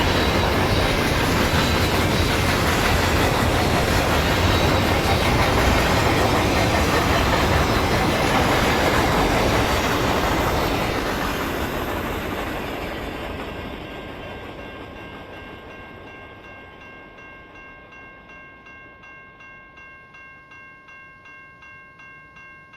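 Double-stack intermodal freight cars rolling past, a loud steady rumble with clickety-clack of the wheels on the rail joints, fading away from about halfway through as the end of the train goes by. In the second half a grade-crossing bell rings about twice a second and stops abruptly at the end.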